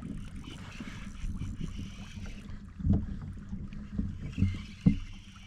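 Kayak on the water: a steady low rumble with a light wash of water noise, and a few short dull knocks on the hull about three, four and five seconds in.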